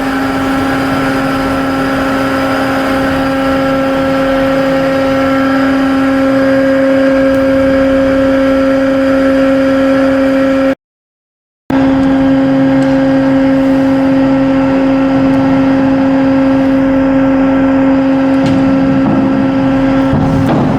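Cargo ship's diesel engine running steadily during a sea trial: a constant loud drone with a strong hum. It cuts out for about a second partway through.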